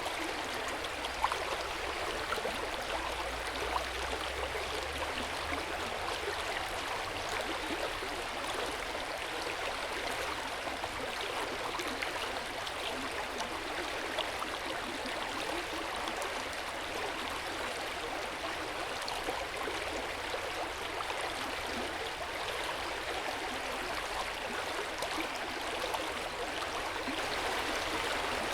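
Hot spring water flowing and splashing steadily into an open-air bath, an even, unbroken water sound.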